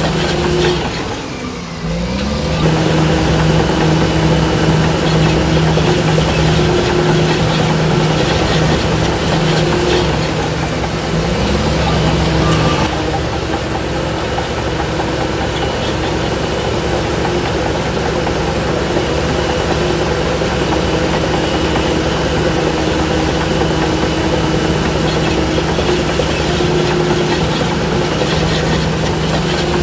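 Heavy diesel earthmoving machinery running steadily: a loud, even engine drone that dips briefly about a second in, then holds.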